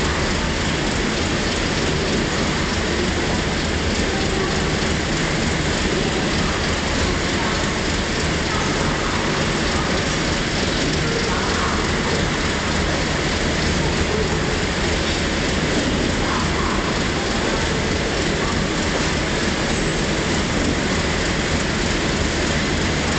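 Passenger coaches of the departing Beijing–Moscow train no. 19 Vostok rolling past along the platform: a steady, unbroken noise of wheels running on the rails.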